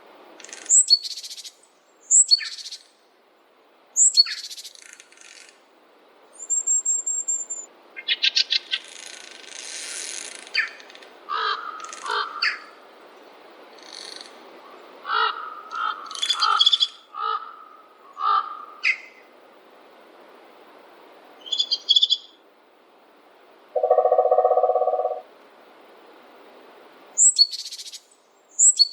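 Forest birds singing and calling: many short high chirps, trills and quick falling whistles from several birds, with one lower, steadier call lasting about a second near the three-quarter mark, over a faint steady background noise.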